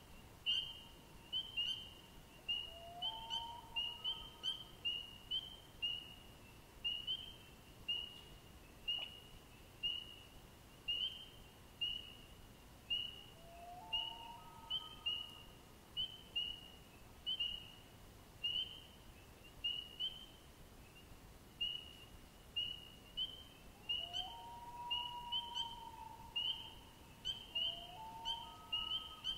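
Birds calling: a high chirp repeated steadily, about one and a half times a second, with a lower, rising call breaking in four times.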